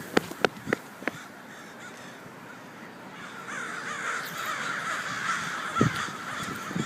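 A huge flock of birds calling all at once, a dense, overlapping din that grows louder from about three seconds in. A few sharp knocks sound in the first second and once more near the end.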